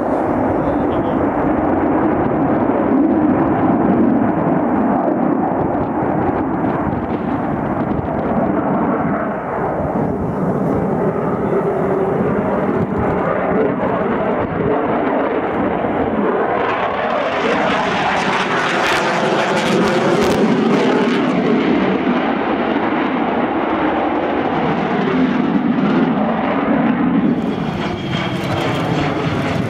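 Loud, continuous roar of a military aircraft's engines as it flies by. The sound turns harsher and more hissing about seventeen seconds in as the aircraft comes closest, followed by sweeping, phasing tones through the roar as it passes.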